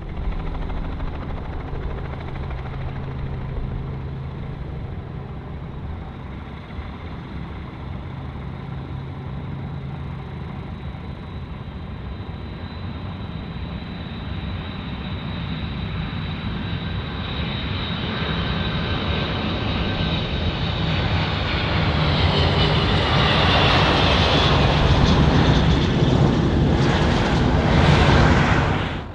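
Jet airliner engines with a steady drone and a high whine. The sound grows louder over the second half, and the whine falls in pitch as the aircraft passes close. It cuts off abruptly at the end.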